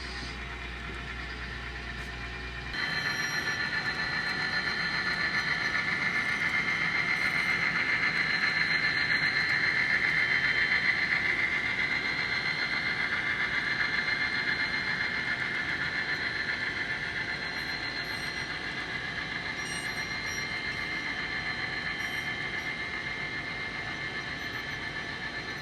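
N scale model train running along the track: a steady whine from the locomotive motors with the rolling noise of small wheels on rail. It jumps louder about three seconds in, swells to a peak near the middle and slowly fades.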